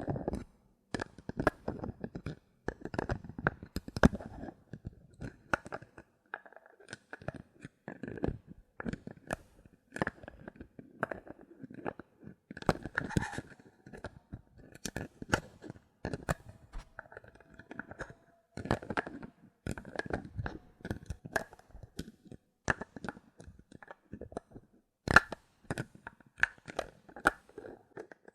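Bottle caps handled close to the microphone: an irregular string of clicks, taps and crackles with short pauses between them.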